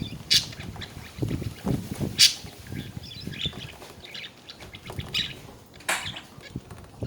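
Budgerigars chattering: scattered short chirps and warbling trills, one sharper call near the end, mixed with soft low knocks and rustles.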